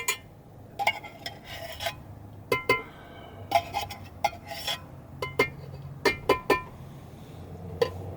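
Metal cookware and utensils clinking and scraping in a series of sharp, ringing clinks at an irregular pace, over a low steady hum.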